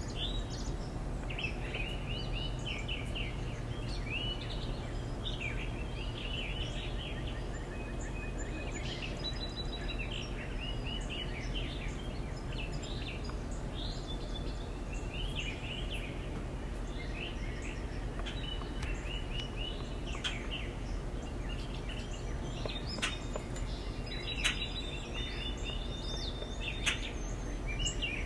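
Backyard songbirds chirping and calling repeatedly in quick runs of short notes, over a steady low background rumble, with a few sharp ticks near the end.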